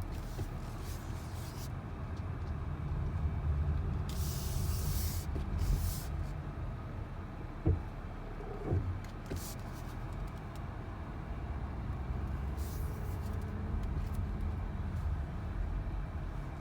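2019 Porsche Cayenne in motion, a steady low rumble of road and drivetrain, with several short hissing noises over it, the longest about four seconds in, and a couple of soft thumps. These are plausibly the brake noise the owner is recording.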